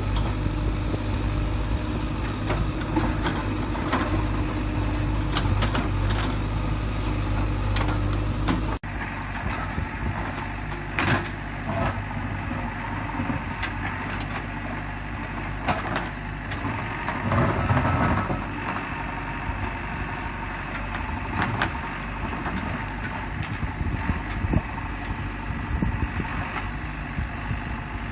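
JCB 3DX backhoe loader's diesel engine running steadily, with scattered short clanks and knocks. The engine sound changes abruptly about nine seconds in, after which it is lower-pitched and the knocks come more often.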